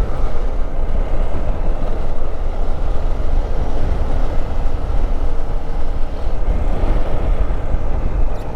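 Steady rush of wind over the microphone of a riding motorcycle, with the Hero Xpulse motorcycle's engine running beneath it at a constant speed.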